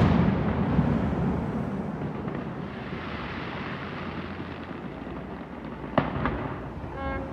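Aerial fireworks: the rumbling echo and crackle of a volley of bursts fading away, then a single sharp bang about six seconds in.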